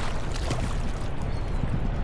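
Wind buffeting the microphone, a steady rumbling rush, with water splashing.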